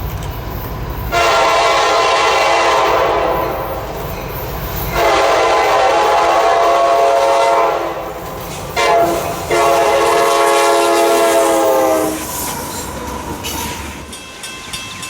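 Diesel locomotive multi-chime air horn sounding the grade-crossing signal, two long blasts, a short one and a final long one, over the train's low rumble. Near the end, even repeated wheel clicks over the rail joints set in.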